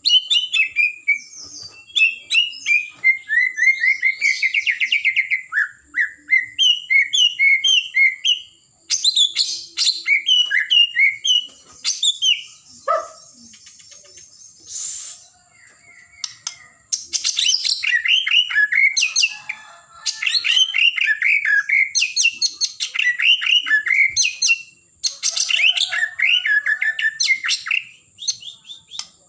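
White-rumped shama (murai batu) singing in rapid runs of varied whistled and chattering notes, in several long bursts with short pauses between them.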